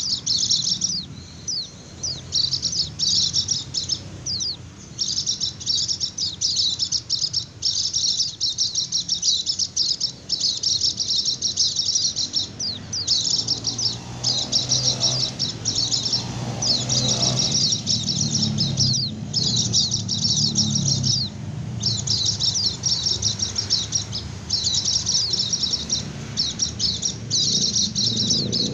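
Pleci (white-eye) singing its fast 'ngecir' song: rapid, high twittering in runs of one to two seconds separated by short breaks, the kind of song used as a lure call for wild white-eyes.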